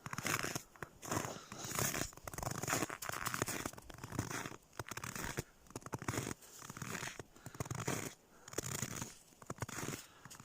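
Footsteps crunching in frozen snow, a steady walking rhythm of about one step a second.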